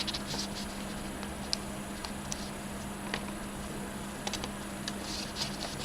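Faint, scattered light clicks and rustles of a paper aeroplane being handled as the plastic clips of an electric power module are slid onto its wings, over a low steady hum.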